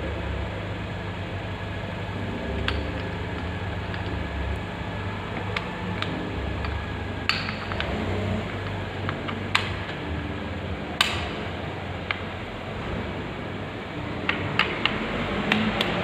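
Sharp metallic clinks and taps of tools and parts being handled during scooter wheel work, scattered and clustering near the end, over a steady low hum.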